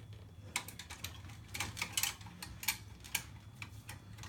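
Irregular light clicks and ticks, about a dozen, from small hard parts being handled during wiring work, over a steady low hum.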